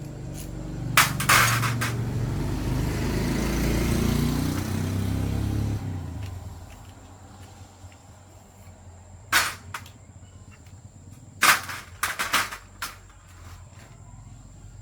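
A low engine rumble, like a passing vehicle, that fades away about six seconds in. Around it come sharp knocks and clanks of hard objects being handled: two near the start, then a cluster in the second half.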